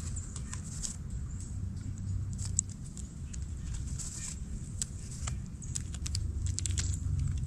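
Scattered light taps and clicks from small animals moving about, over a steady low rumble.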